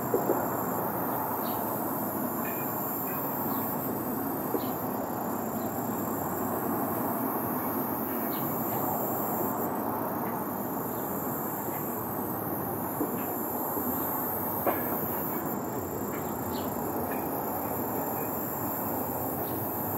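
Boeing 737-800's CFM56-7B turbofan engines at takeoff power, a steady broad jet roar with no change in level.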